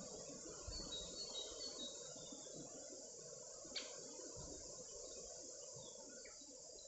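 Faint steady outdoor rushing noise with a quick series of short high bird chirps about a second in, and a single sharp click midway.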